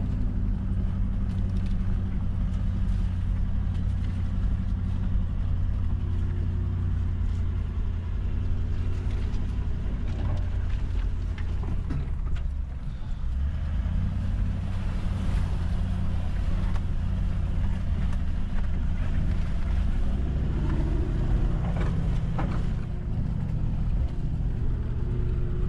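Four-wheel drive's engine running steadily at low speed, heard from inside the cab, with scattered knocks and rattles as it rolls over a rough dirt track. The engine note dips briefly about halfway through, then picks up again.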